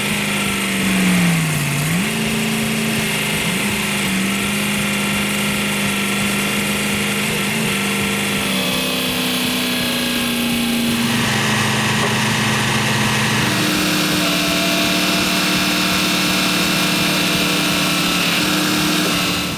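An engine running under changing load. Its pitch dips sharply about a second and a half in and recovers, then steps up and down several times.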